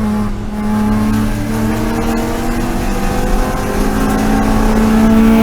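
BMW E36 M3 race car's straight-six engine accelerating, its pitch climbing steadily through a single gear.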